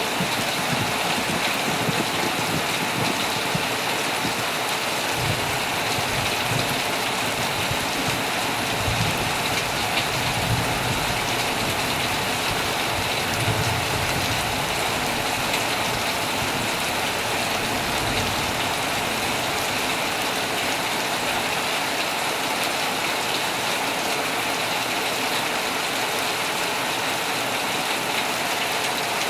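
Heavy, steady rain pattering on tent fabric, with a low rumble of distant thunder through the first half.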